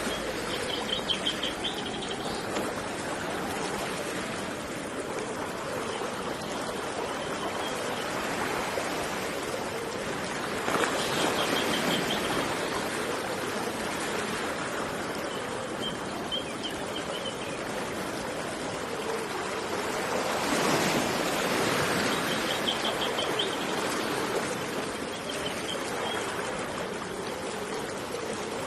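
Continuous rush of flowing river water with surf, swelling louder twice. A small songbird repeats the same short, high trill about six times over it.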